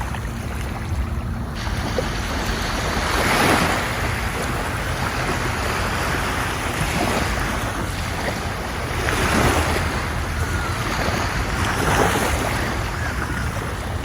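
Ocean waves washing onto a shore: a continuous hiss of surf that swells louder as a wave breaks, three times, about 3, 9 and 12 seconds in, over a steady low rumble.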